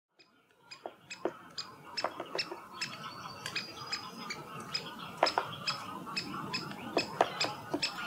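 Birds giving short, sharp chip notes and clicks in an irregular run of several a second, with a few duller taps among them, fading in from silence at the start.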